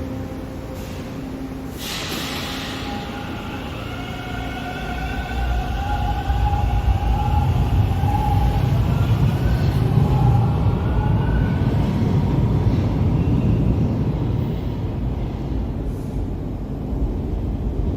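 TTC Line 2 subway train pulling out of the station: a short air hiss about two seconds in, then the traction motors whine and the wheels rumble louder as it gets under way, easing off toward the end.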